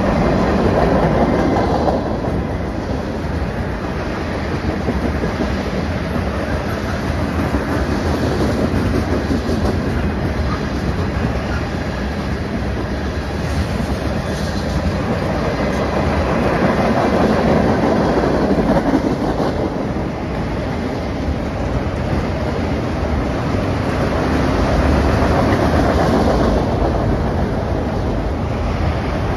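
Loaded freight cars (covered hoppers, tank cars and autoracks) rolling past, their steel wheels clacking over the rails in a continuous rolling noise that swells and eases slightly.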